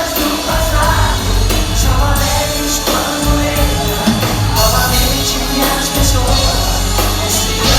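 Pop-rock band playing live: sung vocals, with several voices together, over bass and drums.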